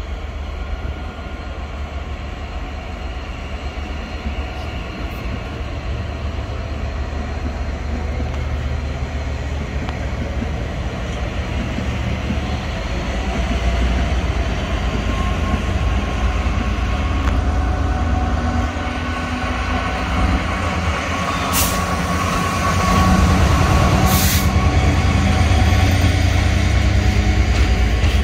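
A train approaching, its rumble growing steadily louder, with a faint steady hum in it. Two sharp clicks come near the end.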